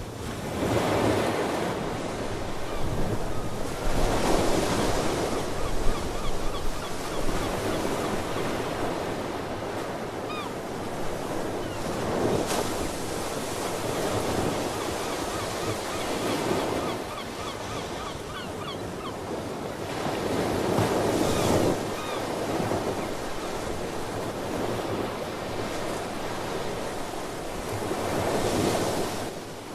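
Ocean waves washing onto the shore, swelling and falling every few seconds, with faint seabird calls now and then in the middle.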